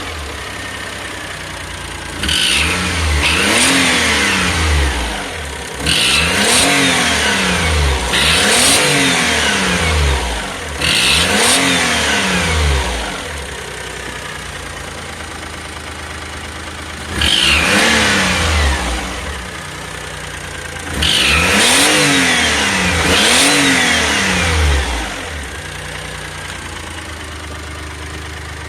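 Daihatsu Atrai Wagon Custom Turbo R's turbocharged engine revved from idle in about eight short blips, each pitch rising and falling back. It settles to a steady idle for the last few seconds.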